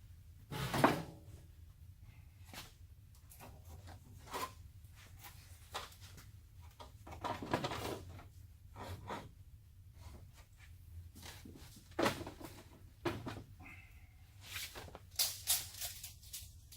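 Scattered knocks, taps and handling clatter as sheet-metal door panels and measuring tools are moved and set down on a work surface, the loudest knock about a second in, over a low steady hum.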